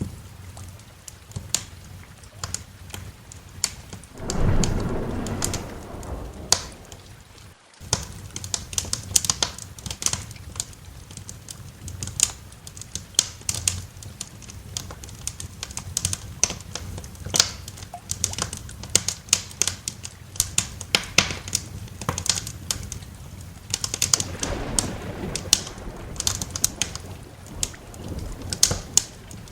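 Wood fire in a fireplace crackling, with frequent sharp irregular pops and snaps. A low rumble of thunder swells about four seconds in, and a weaker one follows near the end.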